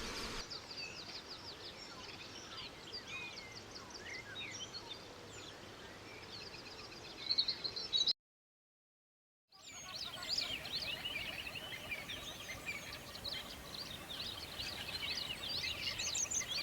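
A chorus of many small birds chirping and trilling at once, the high calls overlapping. It cuts out completely for about a second and a half about eight seconds in, then a second dense bird chorus starts.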